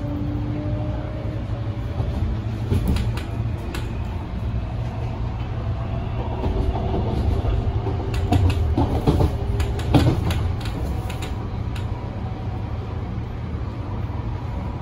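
MTR Tung Chung line A-train running and picking up speed, its traction motors giving a faint whine that rises slowly in pitch over a steady low rumble. A run of knocks from the wheels over rail joints comes around the middle, loudest about ten seconds in.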